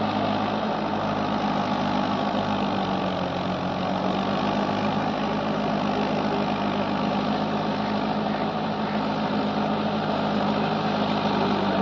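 Mahindra 475 DI tractor's four-cylinder diesel engine running at a steady speed, with no change in pitch.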